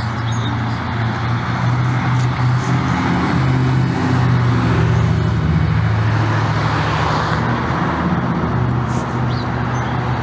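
A motor vehicle's engine running close by, a steady low hum with road noise that grows louder through the middle.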